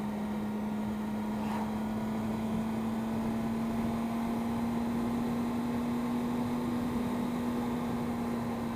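Triumph Speed Triple's three-cylinder engine running at a steady cruising speed, one constant hum that holds its pitch, under a steady rush of wind noise.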